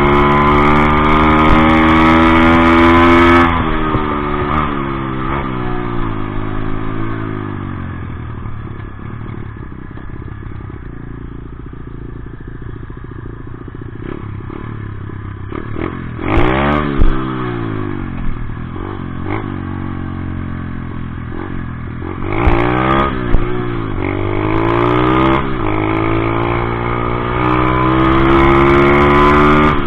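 Dirt bike engine running hard, its pitch climbing as it accelerates and then dropping off. It is revved up and down quickly a couple of times midway, and climbs again near the end.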